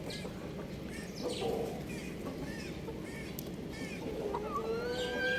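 Young chickens calling: short chirps scattered throughout, a brief call about a second and a half in, and a long drawn-out call starting near the end. Steady low background noise underneath.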